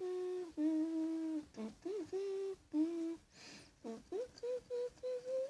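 A child's voice making drawn-out wordless sounds: a string of held notes that step up and down in pitch, with short breaths between them.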